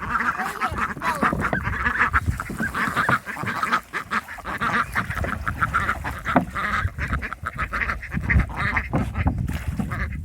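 A group of domestic ducks quacking and honking continuously, many short calls overlapping.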